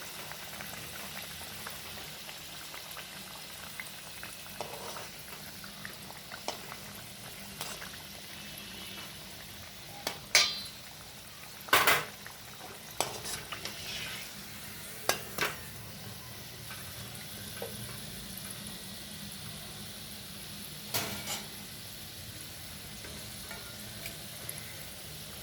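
Paneer and cheese rolls deep-frying in hot oil, a steady sizzle and bubble throughout. A few sharp knocks of a metal utensil against the pan come in the middle, and one more later on.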